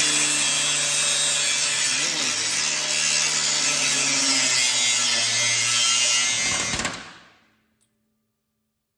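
A power tool cutting into the old steel engine mount, running steadily with a high hiss, then winding down and stopping about seven seconds in.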